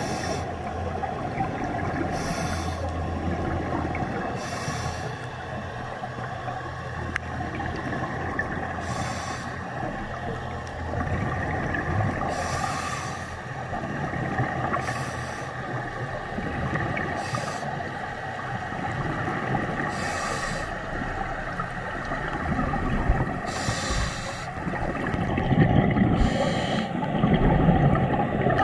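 A scuba diver breathing through a regulator underwater: a short hiss of inhalation every two to three seconds and a rumble of exhaled bubbles, louder near the end, over a steady low drone.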